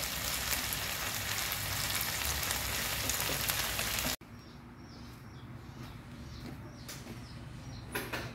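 Squid frying in a pan with fish-sauce glaze, sizzling and crackling, cut off abruptly about four seconds in. After that the sound is much quieter, with a bird chirping over and over.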